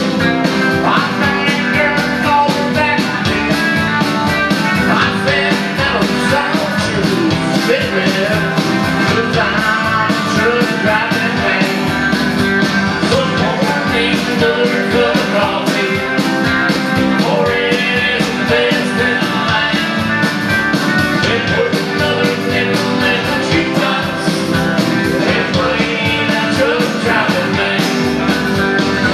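A live rock-and-roll band playing a song with guitars, playing steadily and loudly without a break.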